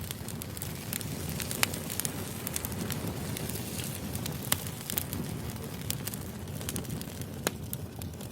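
Wood fire burning: a steady low rumble with frequent irregular crackles and sharp pops from the burning logs.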